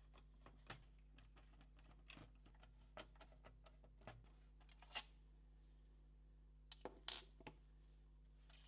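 Faint, scattered clicks and light taps of PS4 Pro console parts being handled during disassembly, over a steady low hum. A small cluster of clicks about seven seconds in is the loudest.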